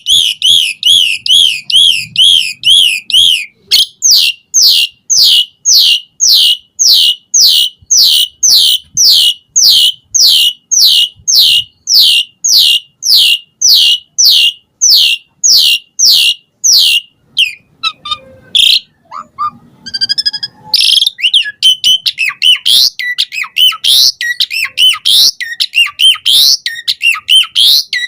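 Asian pied starling (jalak suren) singing: a quick warbling run opens into a long series of sharp, falling whistled notes about three a second, then breaks into a varied chattering, whistling medley in the last third.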